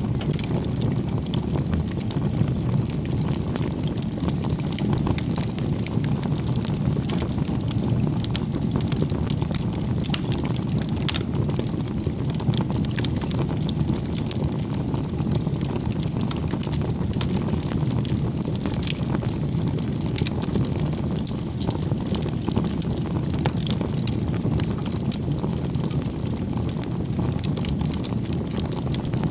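Wood fire burning, with a steady low rumble and frequent small crackles and pops scattered throughout.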